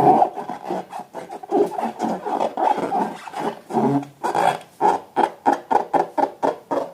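Rubber balloons being rubbed and squeezed, in a run of short pitched rubbing sounds. They come in an even rhythm of about four to five a second in the second half and cut off at the end.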